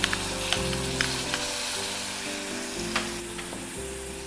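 Tomato purée sizzling as it is spooned into hot oil with fried onions and ground spices in a pan. A few light taps are heard in the first half, and again about three seconds in.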